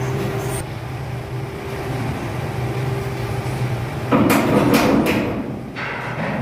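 A machine hums steadily, with a loud stretch of clattering knocks from about four seconds in that lasts under two seconds.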